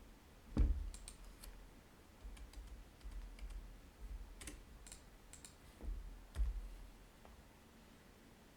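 Typing on a computer keyboard: scattered, irregular key clicks with a couple of duller knocks among them.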